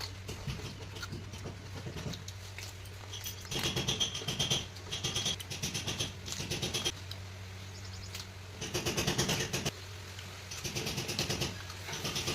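Close-up chewing of crunchy raw food, with about five bouts of crisp crunching, each roughly a second long, over a steady low hum.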